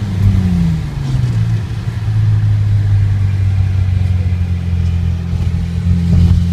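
Saab 9-3 Aero's turbocharged 2.8 L V6 running through an opened Magnaflow exhaust cutout that effectively straight-pipes it. The engine note drops in pitch over the first second, then holds a steady, loud low drone.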